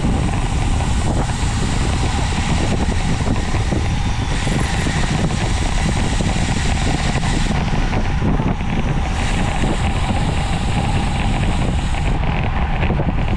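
Steady, loud wind rushing over the microphone of a camera on a road bicycle ridden at speed, with low road rumble underneath.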